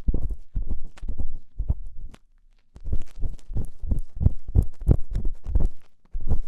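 Ear-cleaning ASMR strokes rubbing and scraping in a binaural microphone's ear: quick rhythmic strokes, about three a second, thumpy and deep, with a short break a little after two seconds.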